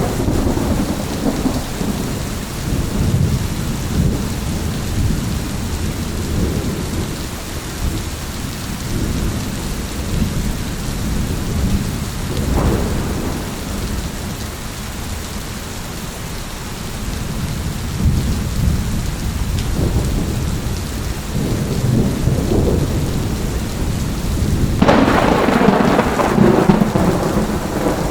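Thunderstorm: steady rain with rolling thunder rumbling low throughout. A sharper, brighter thunderclap breaks about 25 seconds in, after a smaller one near the middle.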